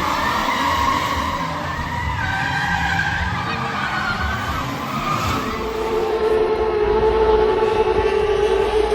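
Stunt cars drifting, with tires squealing and engines running. About halfway in, a steady droning tone takes over.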